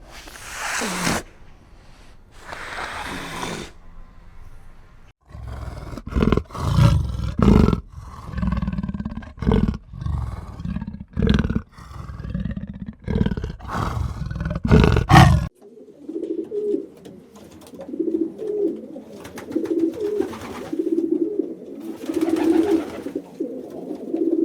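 A big cat roaring in a series of loud, deep, rough calls. About two-thirds of the way in it cuts off and gives way to a soft cooing call repeated every second or so.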